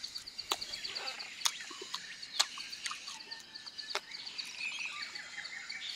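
Close-up eating sounds from chewing and biting roasted rat meat: sharp wet clicks and smacks every second or so. Behind them, a steady high fast-pulsing chirr of insects.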